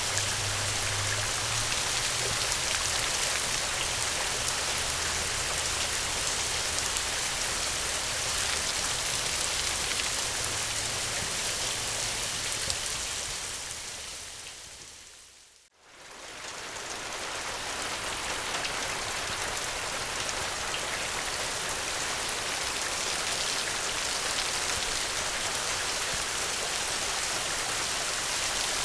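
Steady rain falling, an even hiss of drops. About halfway through it fades away to near silence and fades back in over a few seconds, the join of a looped recording. A low drone sits under the rain in the first half.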